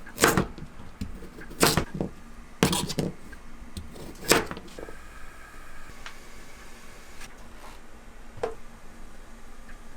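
A series of sharp knocks or crunches: four loud ones in the first half, then a few fainter ones spaced further apart.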